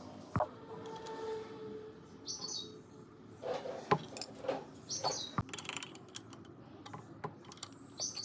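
Birds chirping in short calls a few times, with scattered sharp clicks and knocks.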